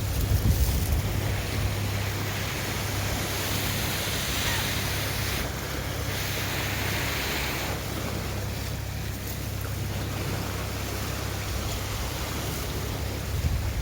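Surf washing on the shore, its hiss swelling through the middle, with wind rumbling on the microphone.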